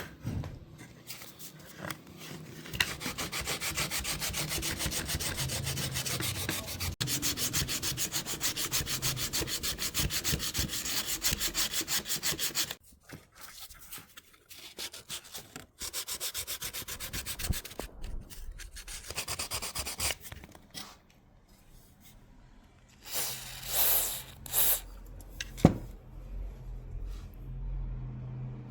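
Wood being sanded by hand: quick, even back-and-forth rubbing strokes that keep up for about ten seconds, stop, and come back in shorter spells. A few louder swishes and a sharp click come near the end.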